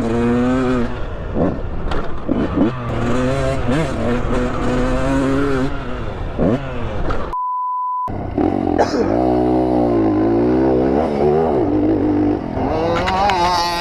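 Dirt bike engines revving up and down. About seven and a half seconds in, everything cuts out for a short steady censor bleep, then the revving resumes.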